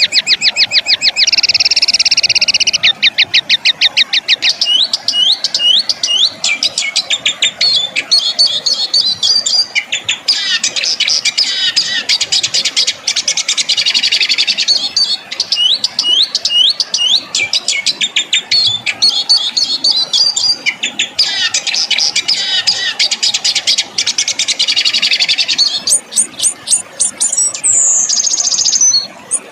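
Songbird song played loudly as a tutor recording for competition birds: rapid-fire runs of sharp repeated notes alternating with dense buzzing trills, the harsh 'shooting' style of song.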